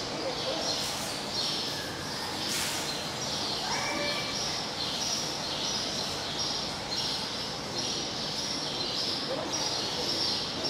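Bird chirping: a short high note repeated about twice a second, alternating slightly in pitch, with a brief lower call about four seconds in.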